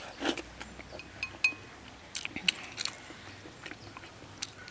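A person chewing and biting braised pork trotter close to the microphone, wet mouth sounds with lip smacks, broken by scattered short sharp clicks.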